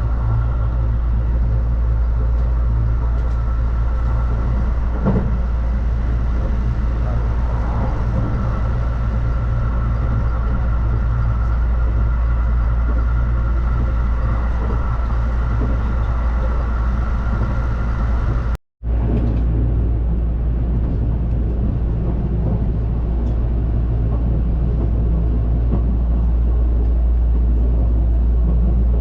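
Train running noise heard from inside a carriage: a steady low rumble with a faint steady whine above it. The sound cuts out for a moment about 19 seconds in, then continues.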